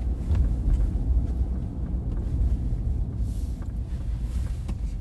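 Inside a car driving along: the steady low rumble of the engine and the tyres on the road.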